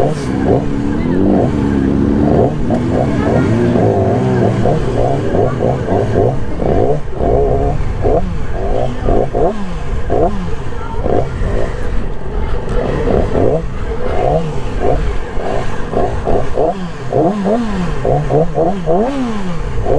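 Motorcycle engines being revved over and over, pitch rising and falling in quick blips, with voices mixed in.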